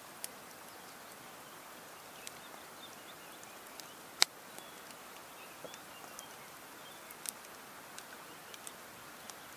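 Quiet outdoor evening ambience: a steady low hiss with scattered short, sharp clicks, one louder click about four seconds in, and faint high chirps.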